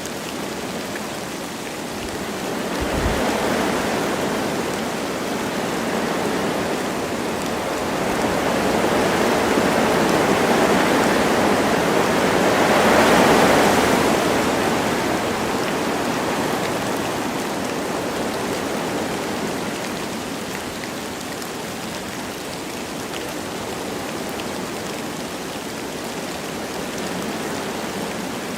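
Wind blowing through forest trees with light rain falling. It comes in slow gusts, rising from about three seconds in to its strongest around the middle, then easing off.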